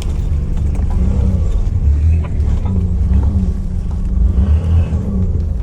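Nissan GU Patrol's 4.8-litre TB48 petrol straight-six running at low revs under load as it crawls up a steep rutted climb. The engine note rises and falls a little, with occasional light clicks and knocks.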